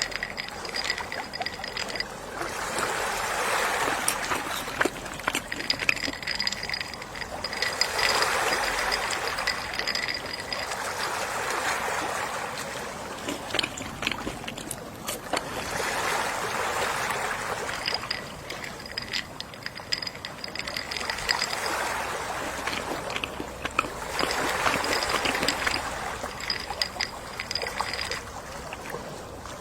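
Gentle sea waves washing in and drawing back, the surf swelling and fading about every four to five seconds.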